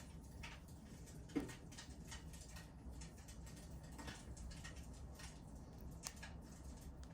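Wood fire crackling in a fireplace: faint, irregular snaps and pops, with one sharper pop about a second and a half in.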